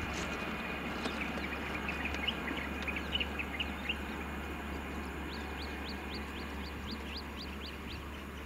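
Bird calling: a run of short rising chirps, two or three a second, pausing midway and then going on a little higher, over a steady low hum and hiss.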